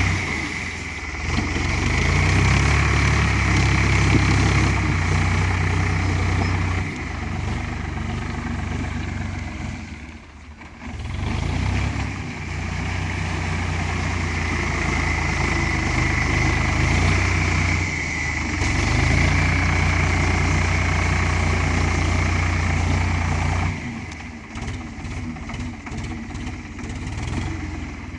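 Ford 3600 tractor's three-cylinder engine running under load while mixing clay. Its note drops briefly twice, sharply about ten seconds in, then picks back up, and it falls to a lighter, uneven running near the end.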